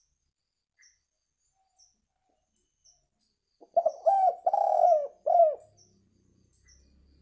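Spotted dove (tekukur) cooing: one phrase of four notes, about two seconds long, starting about three and a half seconds in, each note dropping in pitch at its end. Before it, faint soft ticks about once a second.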